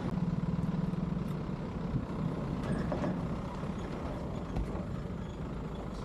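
A car's engine running and road noise heard from inside the cabin while driving a rough road, a steady low hum with a few faint knocks.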